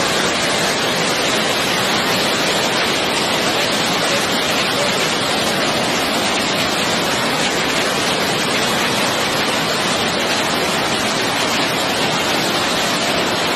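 Water rushing through a dam's outlets, a steady, unbroken rush of noise.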